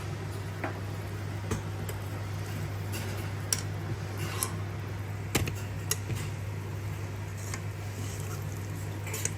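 Scattered light clicks and taps of kitchen items being handled, over a steady low hum.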